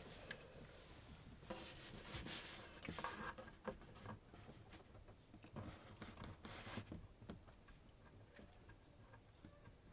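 Faint rubbing and scraping with scattered light clicks, busiest about one and a half to three seconds in and again around six to seven seconds in, then dying down.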